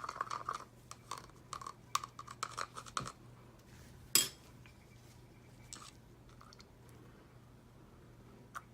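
Gold mica being stirred into oil in a small cup: quick clicking and scraping of the stirrer against the cup, then a few separate clicks and one louder clink about four seconds in.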